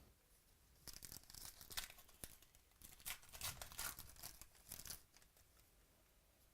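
Trading-card pack wrapper being torn open and crinkled, a run of rustling, tearing bursts lasting about four seconds.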